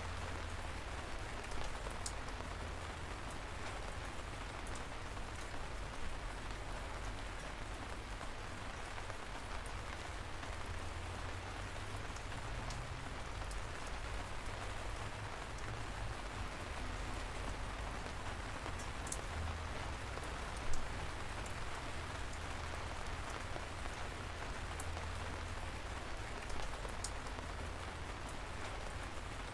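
Steady light rain, a gentle drizzle, with the patter of scattered individual drops and now and then a louder single drop, the loudest about two-thirds of the way in.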